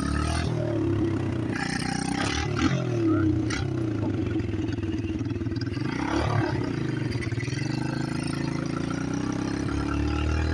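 Chinese pit bike engine running, its pitch rising and falling as it revs and eases off, with a couple of short knocks about three seconds in.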